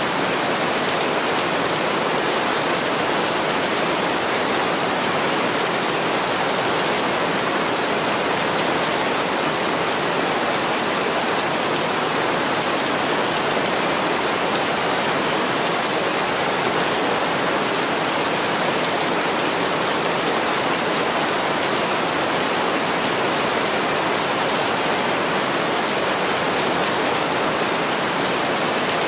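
Heavy rain pouring steadily on a window, an even rushing hiss with no letup.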